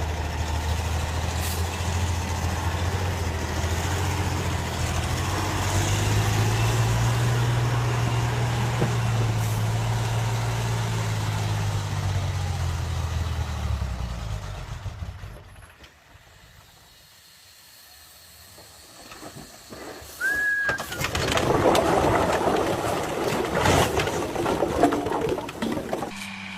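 Heavy truck engine running under load, its pitch rising and then falling away over about fifteen seconds. After a quieter stretch come a short high squeal and a stretch of rough, loud noise near the end.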